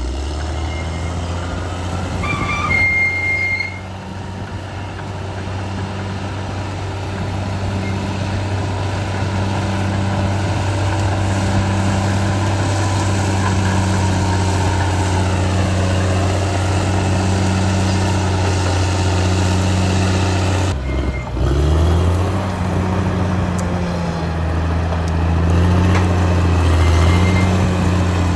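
Caterpillar D6R XL bulldozer's diesel engine running steadily with a deep, even hum, dipping briefly about three-quarters of the way through and then picking up again.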